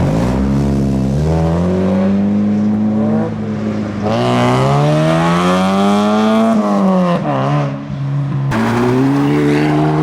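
A car engine accelerating hard through the gears. The pitch climbs three times, and after the first two climbs it drops sharply as a shift is made.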